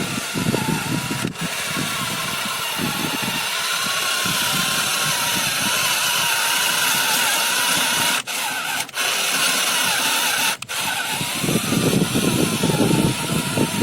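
A tractor's motor and gearbox running with a steady whirring and a faint wavering whine, the running growing heavier and more pulsing near the end.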